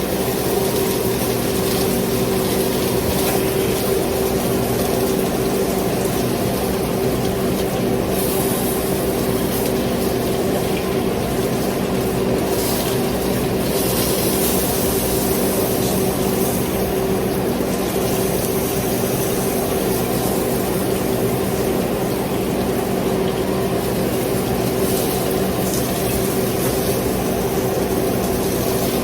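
Steady hum and hiss of a running kitchen appliance fan, holding one even level with a constant low hum.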